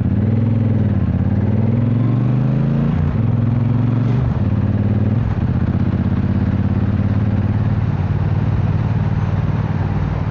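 Triumph parallel-twin motorcycle engine heard from the saddle while riding, with wind noise. Its pitch rises and falls several times with throttle and gear changes over the first few seconds, then settles to a steady cruising note.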